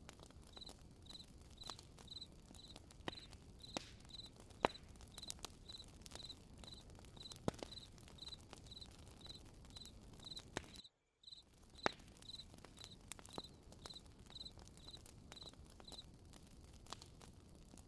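A cricket chirping faintly and evenly, about twice a second, stopping near the end, over the scattered pops and crackles of a campfire. The sound cuts out completely for a moment about eleven seconds in.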